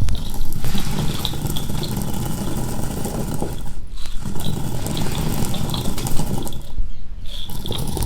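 Split chickpeas (chana dal) being poured in a steady rushing stream so the wind blows off the husks, a winnowing step after stone-grinding. The stream breaks off briefly twice, about four seconds in and again around seven seconds.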